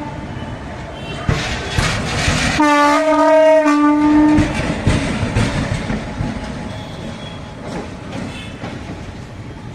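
WDP4D diesel locomotive's horn sounds one blast of about two seconds, a few seconds in, over the noise of the departing train. The rumble of the train with clicking wheels then fades gradually.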